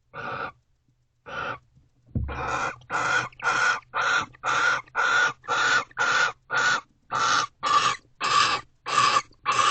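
Barn owl giving harsh, hissing screech calls: two short ones, then from about two seconds in a steady run of rasping calls about two a second, during a face-off between a barn owl pair or rival at the nest box. A low thump sounds just before the run begins.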